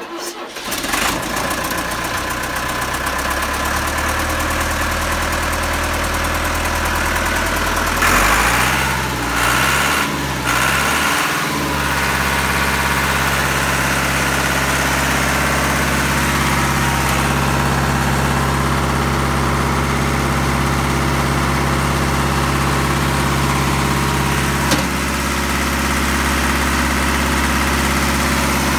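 Putzmeister concrete pump's engine starting, then running steadily at idle. About eight seconds in, its speed rises and falls a few times before settling back to a steady idle.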